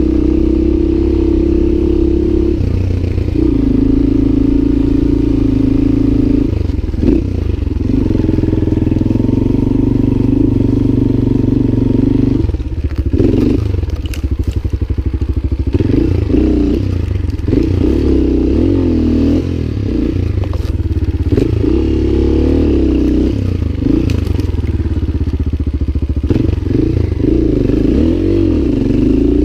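Lifan LF200GY-5 single-cylinder enduro motorcycle engine running under way. It holds a steady pitch for stretches, then rises and falls repeatedly as the throttle is opened and closed, with a dip in engine note about thirteen seconds in.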